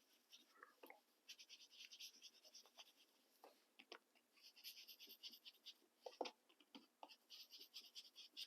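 Soft, quiet scrubbing of a colouring tool rubbed on paper in quick repeated strokes, coming in several runs, as colour is worked in around the edges of a journal page to dull its white; a few light taps between runs.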